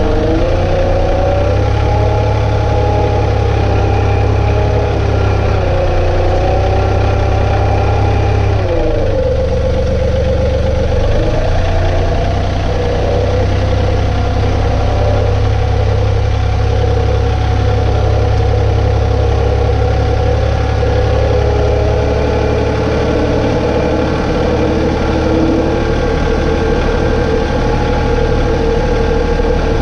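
John Deere 2032R compact tractor's three-cylinder diesel engine running steadily. About nine seconds in its note briefly dips and shifts, then holds steady.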